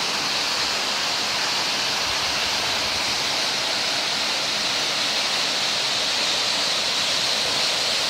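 Steady rush of flowing water, an even unbroken noise with a hissing edge.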